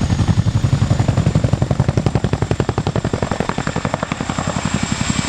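RAF Chinook tandem-rotor helicopter flying, its rotors making a rapid, even chopping blade slap.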